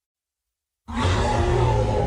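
Tyrannosaurus rex roar sound effect: silence, then a deep, loud roar starts just under a second in and carries on.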